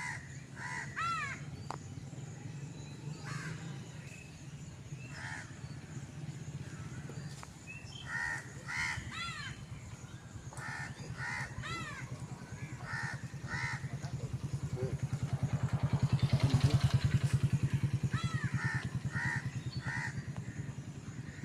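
Crows cawing repeatedly in short bursts of several calls. Under them a motor vehicle's engine hums, growing louder to a peak about two-thirds of the way through, then fading as it passes.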